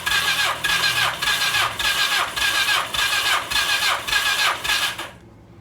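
Electric starter cranking the plugs-out inline-four of a 1982 Suzuki GS1100 for a compression test, pulsing evenly about twice a second, then stopping suddenly about five seconds in. The cylinder under test reads 140 psi, good compression.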